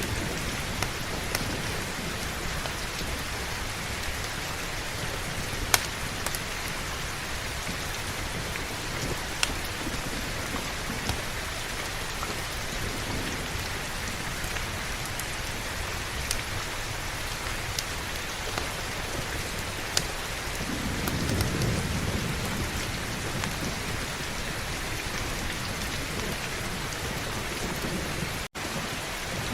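Steady heavy rain, with a low rumble of distant thunder swelling about two-thirds of the way in and a few sharp clicks scattered through. The sound cuts out for an instant near the end.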